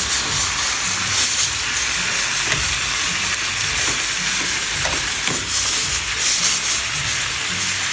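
Chicken pieces sizzling in hot oil in a frying pan while a spatula stirs them: a steady frying hiss with occasional scrapes. The meat is browning, the first stage of a brown stew chicken.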